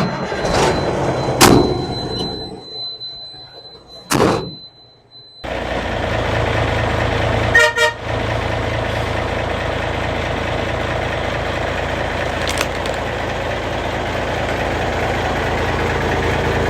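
A steady high beep with a few loud swooshes and thumps, then from about five seconds in the M923A1 5-ton army truck's diesel engine running steadily. A short rapid rattling burst comes about eight seconds in.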